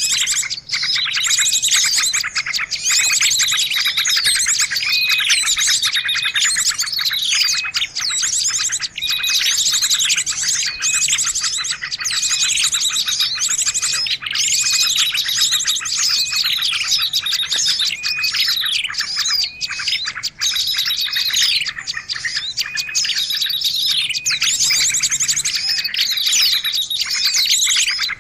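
Dense chorus of many small birds calling at once, with rapid trills, chirps and sweeping whistled notes overlapping without a break: a mixed-species bird-lure (pikat) recording.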